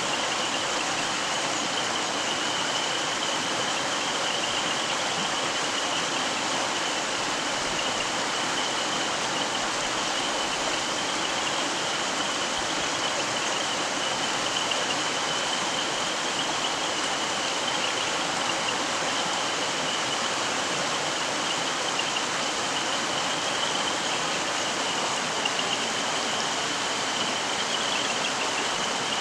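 Mountain stream rippling and splashing over rocks in a steady, even rush of water, with no wind. A faint high-pitched tone runs steadily through it.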